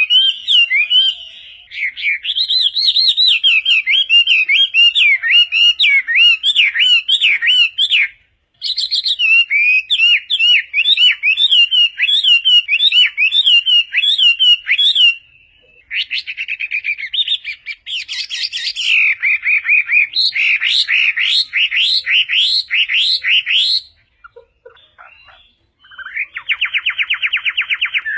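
Chinese hwamei singing loud, varied phrases of rapidly repeated, sweeping whistled notes, broken by short pauses. Near the end comes a fast, even trill.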